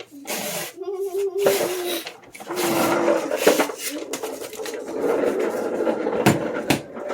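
Rustling, rubbing and scraping of refrigerated biscuit packaging being handled and opened, with two sharp knocks near the end.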